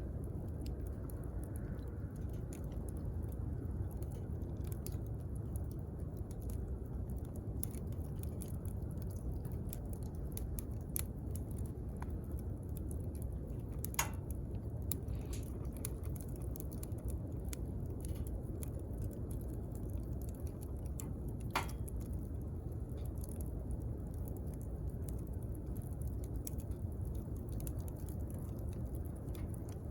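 Wood fire crackling: a steady low rumble from the burning fire with scattered small pops and clicks, and two sharper snaps about halfway and two-thirds of the way through.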